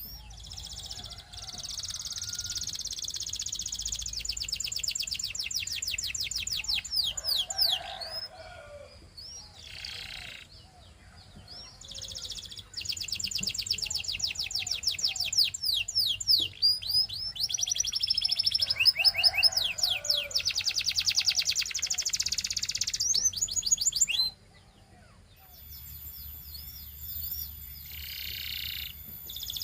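A canary singing long, fast trills of rapidly repeated high notes, with rolling phrases broken by short pauses. It falls quiet for a moment about three-quarters of the way through, then resumes more softly.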